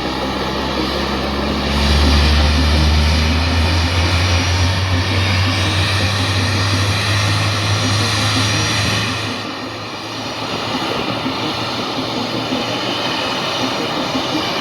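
Jet noise from an A-10C Thunderbolt II's two General Electric TF34 turbofan engines in a demonstration flight. A loud, steady rush with a deep rumble that swells about two seconds in and eases off after about nine seconds.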